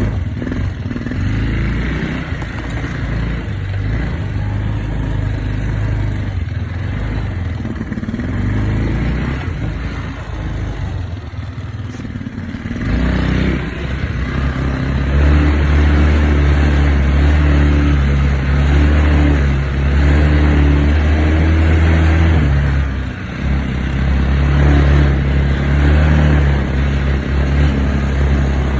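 Irbis 150 quad bike's engine running as it is ridden, revs varying for the first dozen seconds. About halfway in, the engine comes in louder and holds higher, steady revs under throttle, with a brief drop in revs later on.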